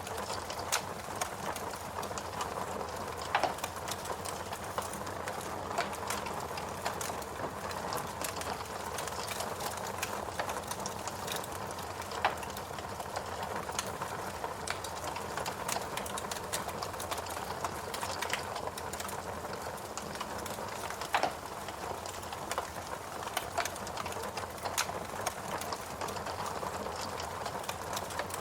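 Fireplace crackling: irregular pops and snaps, a few louder ones, over a steady soft rush.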